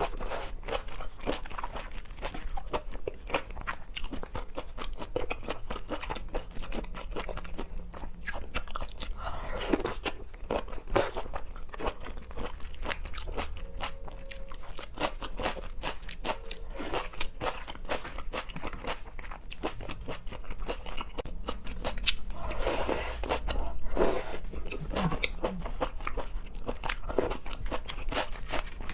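Close-miked eating: a person biting and chewing seafood, with dense, rapid wet crunching and mouth clicks and a louder swell a little past the middle.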